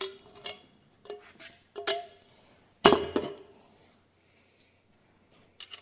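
Hard metal clinks and knocks as steel engine parts are worked into and against the engine case, about five in the first three seconds, each with a short ring, the loudest about three seconds in, then a couple of small clicks near the end.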